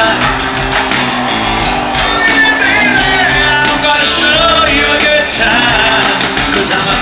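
Live country-rock band music, loud and steady, with guitar to the fore over bass and drums and some singing.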